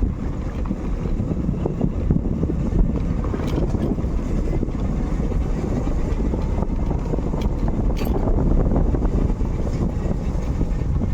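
Motorcycle on the move: wind buffeting the microphone over a steady low rumble of engine and road, with a couple of brief clicks.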